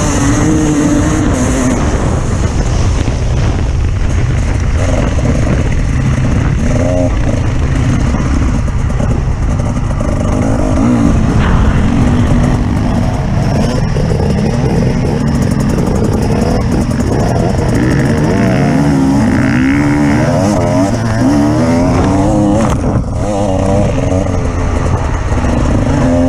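Off-road vehicle engine driving under load, its revs rising and falling again and again, over a heavy, constant low rumble.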